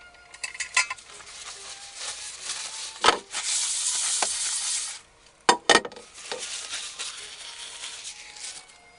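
Kitchen work with pans and utensils: clinks, scrapes and knocks, and a loud hiss that starts suddenly about three seconds in and cuts off about two seconds later, followed by a softer hiss.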